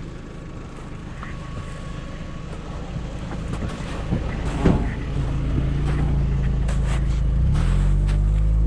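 Vehicle engine running, growing louder. About five seconds in it settles into a steady, stronger note that steps up a little near the end, as if taking load, with a single sharp clunk just before.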